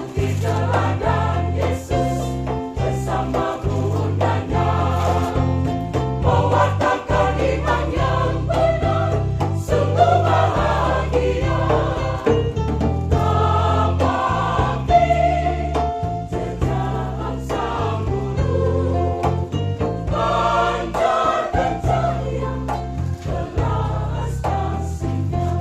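Church choir singing a hymn in parts over instrumental accompaniment with a steady bass line.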